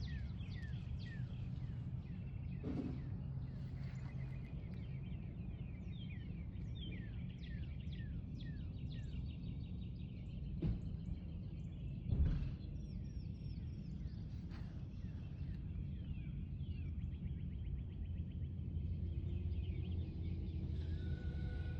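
Birds chirping and singing, many short falling calls over and over, over a steady low rumble. There are a few dull thumps, the loudest about twelve seconds in.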